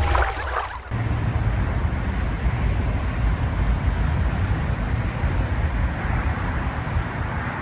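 Steady low rumbling noise with a hiss above it, starting about a second in.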